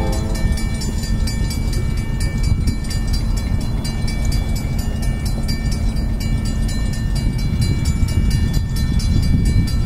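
Norfolk Southern freight train running past with a steady low rumble, a fast even clicking riding over it.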